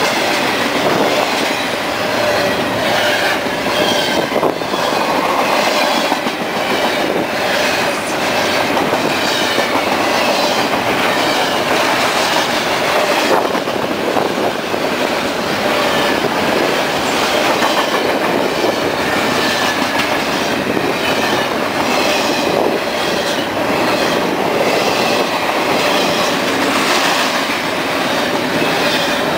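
Double-stack intermodal freight train rolling past close by: a steady rumble of wheels with rhythmic clickety-clack over the rail joints and faint high wheel squeals.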